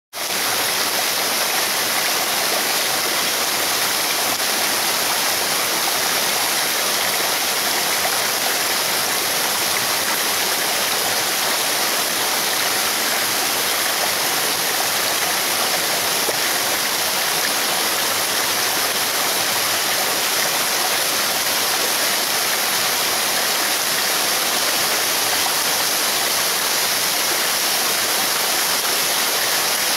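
Rain falling steadily on forest foliage, a dense, even hiss that does not let up.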